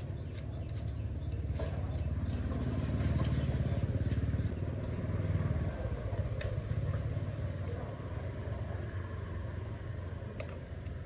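A steady low motor or engine rumble with scattered light clicks and taps; it swells slightly a few seconds in and eases off towards the end.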